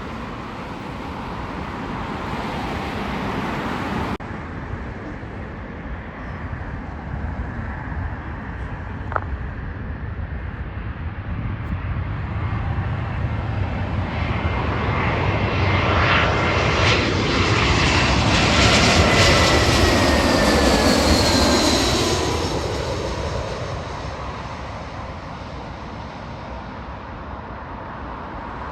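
Jet airliner passing close by: its engine rumble builds to a peak just past the middle, with a whine that slides down in pitch as it goes by, then fades away.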